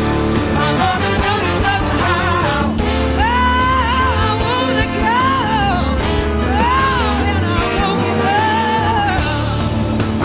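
Live blues-rock band playing a song, with a singing voice gliding and bending over the band.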